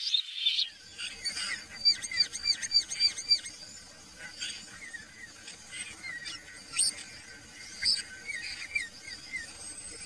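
Several birds calling and singing. About two seconds in comes a quick run of about six arched chirping notes, followed by scattered short chirps and whistles.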